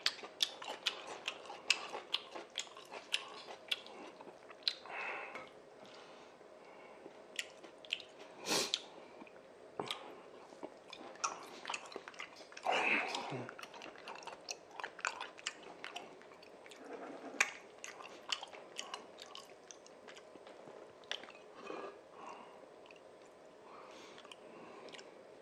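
A person chewing Chapagetti noodles and beef sirloin: a steady run of small, wet mouth clicks and smacks, with two louder sounds about eight and a half and thirteen seconds in.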